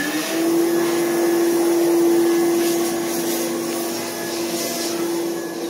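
A steady electric motor whine with an airy rush, like a vacuum or blower motor, switching on right at the start and holding one pitch.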